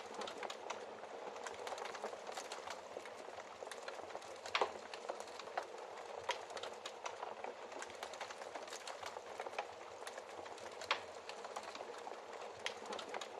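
Wood fire crackling steadily in a fireplace, with frequent small snaps and a few louder pops, the strongest about four and a half, six and eleven seconds in.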